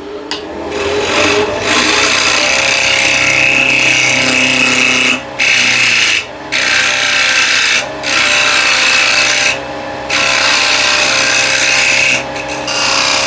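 Vicmarc VL300 wood lathe spinning up over the first couple of seconds, then running steadily while a gouge cuts a tenon on the spinning wooden blank. The cutting noise breaks off briefly about five times as the tool comes away from the wood.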